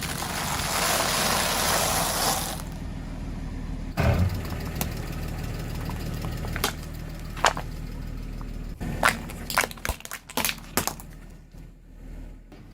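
A car's tyres crushing objects over a steady low engine hum. There is a hissing rush for the first two seconds or so, a heavy thump about four seconds in, then a run of sharp cracks and pops.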